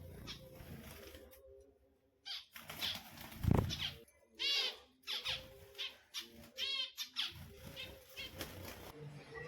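Finches calling with short, nasal calls of many stacked tones, several in a row, amid wing flutter and rustling. A low thump about three and a half seconds in is the loudest sound.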